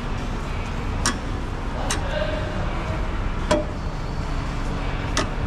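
Four sharp clicks and knocks a second or more apart as car body parts are handled and fitted during front-end reassembly, over a steady low rumble.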